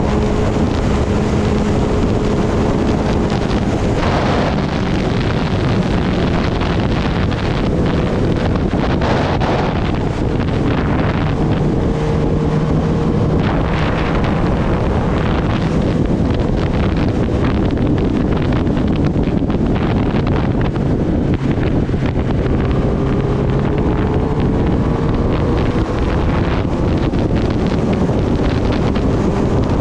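Kawasaki Ninja ZX-10R's inline-four engine running at a steady cruise under heavy wind rush on the microphone, its note rising gently near the end.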